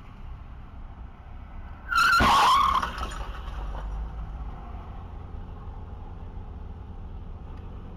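Steady road noise of a moving car, broken about two seconds in by a loud, sudden burst of skidding tyres and impact lasting under a second.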